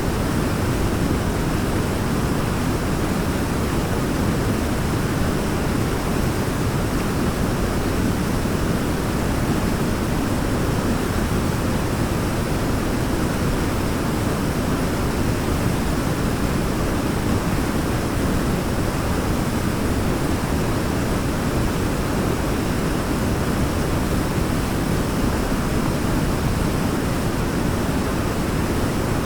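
Waterfall: water falling and rushing in a steady, deep, unbroken roar.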